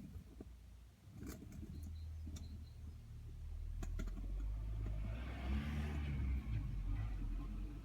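Car engine running, its low hum building up and getting louder through the middle of the clip, with a couple of sharp clicks in the first half.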